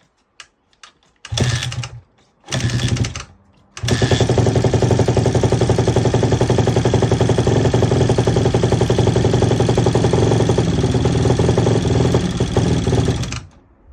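Honda CRF150RB four-stroke single-cylinder dirt bike engine, with a freshly rebuilt top end, firing in two short bursts and then catching. It runs steadily for about nine seconds before cutting off abruptly.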